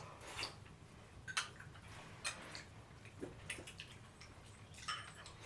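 Scattered light clicks and taps, irregular, about ten over a few seconds, over a faint low hum.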